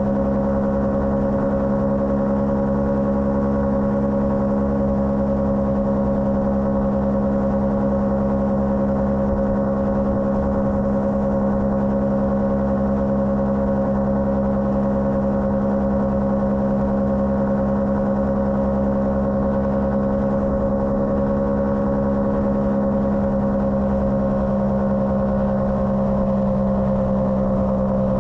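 Motorcycle engine running at a steady cruise, holding an even pitch, easing slightly lower near the end.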